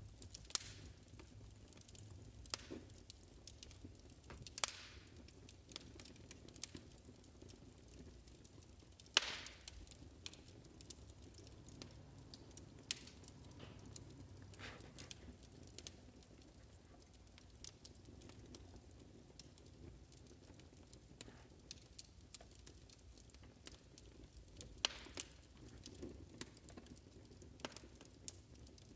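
Wood fire crackling, with irregular small snaps and a few sharper pops over a soft low rumble.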